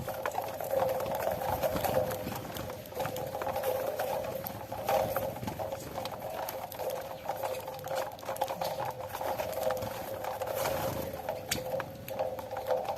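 Many small, quick, irregular taps and clicks: a flock of saffron finches pecking at cracked corn on the ground. A steady hum runs underneath.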